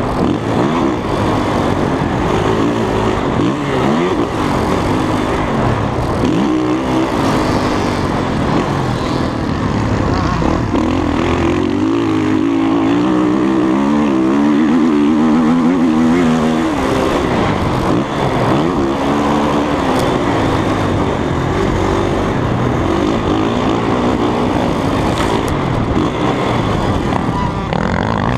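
Dirt bike engine running hard on a ride, its pitch rising and falling over and over as the rider opens and closes the throttle and shifts.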